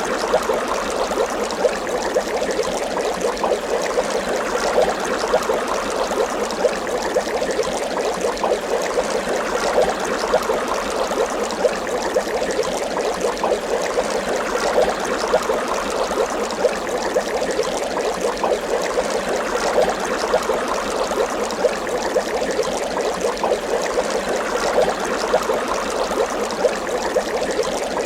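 Water bubbling steadily, a dense stream of small bubbles popping and gurgling without let-up.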